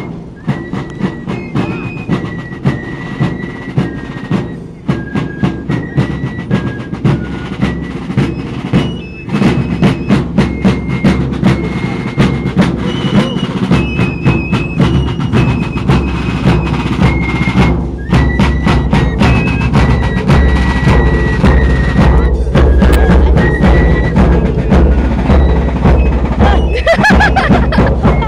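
Parade marching band playing: rapid snare-drum strikes and bass-drum beats under a high, piping melody. It gets louder about nine seconds in.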